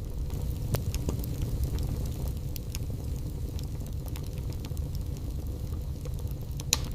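Wood burning in a fireplace: a steady low rumble with scattered crackles and small pops, and one sharper pop near the end.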